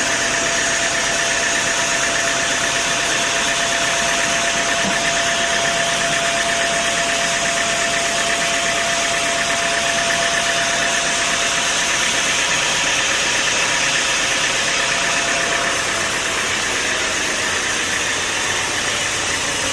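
Sawmill machinery running steadily: a continuous engine-like drone with a steady whine that fades about 16 seconds in.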